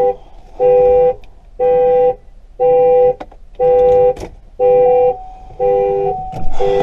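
Car horn of a 2013 Chevrolet Captiva honking over and over, one half-second blast about every second, seven times: the regular pulsing of a tripped security alarm.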